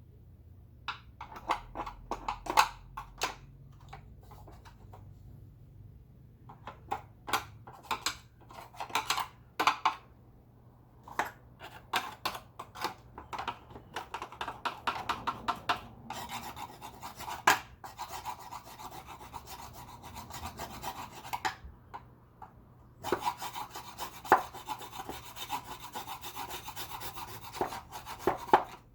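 Vacuum cleaner parts being scrubbed by hand: quick rubbing strokes in spells of a few seconds, with short pauses between them. The longest spells come in the second half.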